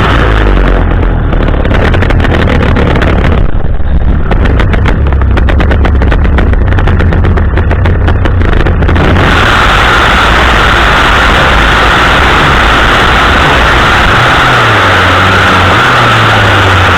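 Two-stroke pole-mounted chainsaw engine running loud and steady. For several seconds in the first half the sound turns into a fast, even chatter.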